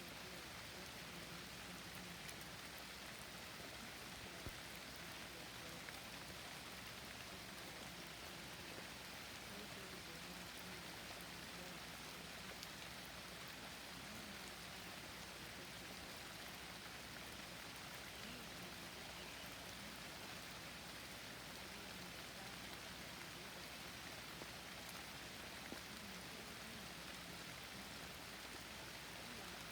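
Steady rain falling, an even hiss with a few single louder drops ticking now and then.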